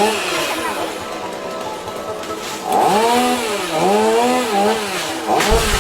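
Chainsaw engine running, its pitch rising and falling several times in the second half.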